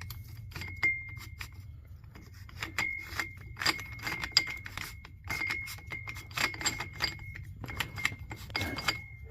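Steel differential parts clinking and ringing: the side gear being worked down onto the splines of a Sure-Grip limited-slip clutch pack in the case, with many light metallic clicks that each ring briefly. The clutch-plate teeth are not lined up, so the gear does not seat.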